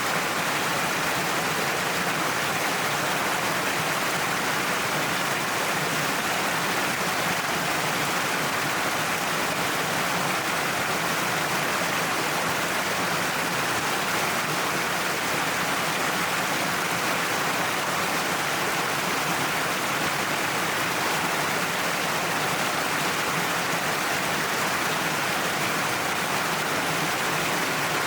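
Waterfall cascading down a cliff: a steady, even rush of falling water.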